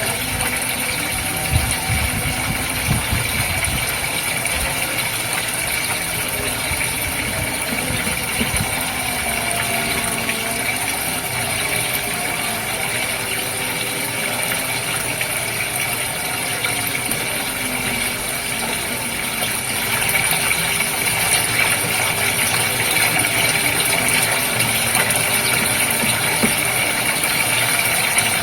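Goldfish aquarium water with a steady pump hum running under it, continuous and even, a little louder from about two-thirds of the way in.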